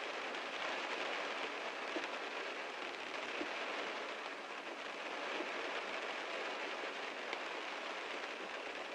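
Heavy rain falling steadily on a car, an even hiss with the odd louder drop tick.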